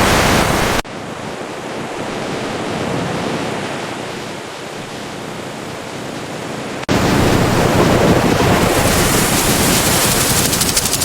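Steady rush of surf and wind blowing across the microphone. It drops abruptly to a softer, duller rush about a second in and cuts back to full loudness near seven seconds.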